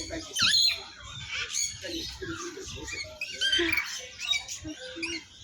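Many caged songbirds chirping and calling at once, a dense stream of short rising and falling notes with the odd squawk.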